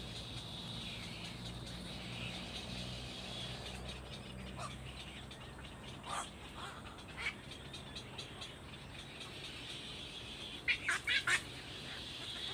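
Birds calling: a few scattered short calls, then a quick run of four sharp, high calls near the end, the loudest sounds, over a steady high-pitched background hiss.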